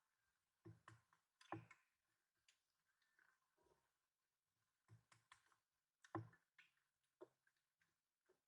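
A handful of faint, irregularly spaced clicks and light knocks.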